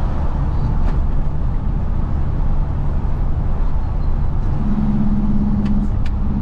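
Isuzu FRR90 truck's diesel engine running steadily under way, with road noise. A steady low hum joins about four and a half seconds in, and a few short clicks come near the end.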